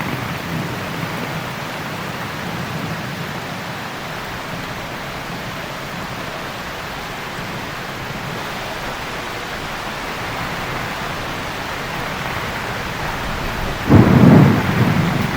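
Steady heavy rain falling, with a sudden loud thunderclap near the end that fades over about a second.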